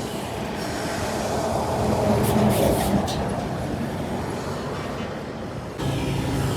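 Heavy truck running with a steady rumble, with a few short hisses near the middle; about six seconds in the sound cuts abruptly to a louder, deeper engine drone.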